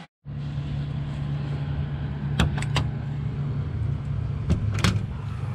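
Steady low mechanical hum, with a quick run of three sharp clicks about two and a half seconds in and two more clicks near the end.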